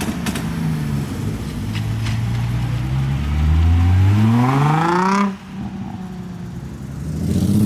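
Nissan 350Z's V6 engine revving up under hard acceleration, its pitch climbing steadily for about four seconds. It then drops off sharply about five seconds in, and another climb in revs starts near the end.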